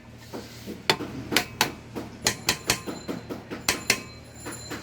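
Hammer tapping on metal pump parts, sharp strikes in quick uneven clusters with a faint metallic ring, over a steady low hum.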